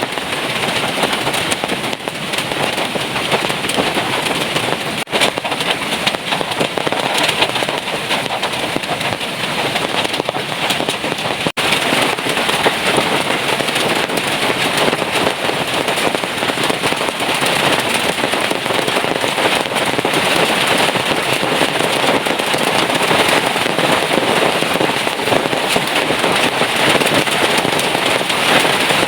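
Heavy rain falling steadily, a dense, loud patter of drops hitting close surfaces, with two very short gaps in the first half.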